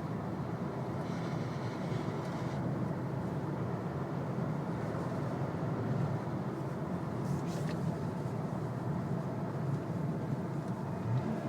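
Volkswagen Golf R running steadily while being driven, a low, even engine drone with road noise and no revving.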